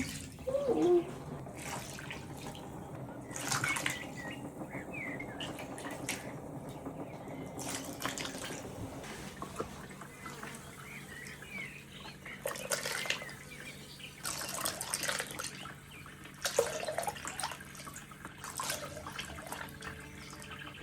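Homemade elderflower champagne being scooped with a small jar and poured, splashing and trickling in several separate pours.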